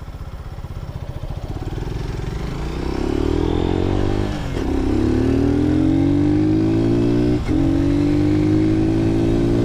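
Lifan KP Mini 150's single-cylinder engine pulling away from a standstill at a stoplight: it idles briefly, then revs up through the gears, with the pitch climbing, dropping at an upshift about four and a half seconds in and again about seven and a half seconds in, then climbing again.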